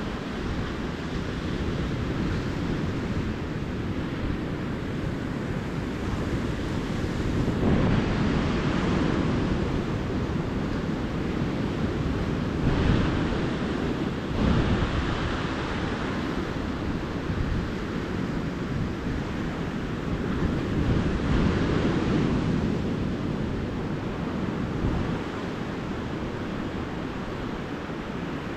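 Calm ocean surf on a beach: a steady wash of water with waves breaking and swelling louder about every six or seven seconds.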